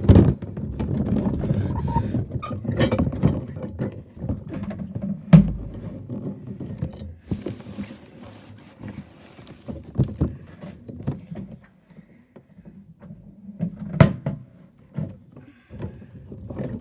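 Irregular knocks, clunks and rattles of a toy garbage truck and its bins being handled, with a loud thump about five seconds in and a sharp knock near the end.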